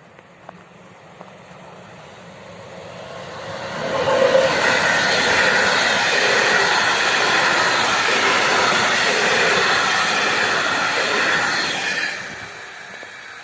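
A passenger train passing over the level crossing close by. The noise of wheels on rails swells about four seconds in, holds steady for about eight seconds, then falls away.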